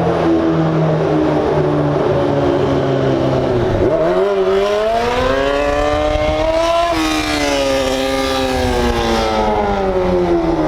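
A motor vehicle's engine revving hard: its pitch drops in steps for about four seconds, then climbs sharply for about three seconds under acceleration and falls away slowly as it eases off.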